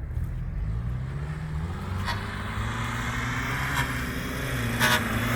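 VAZ-2106 Zhiguli's four-cylinder petrol engine running under load as the car drives, its pitch climbing after the first second and then holding fairly steady. A short burst of hiss comes near the end.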